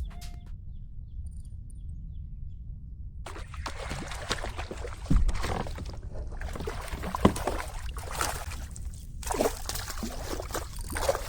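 Water sloshing and splashing against a kayak's hull in irregular bursts, starting a few seconds in, over a steady low rumble.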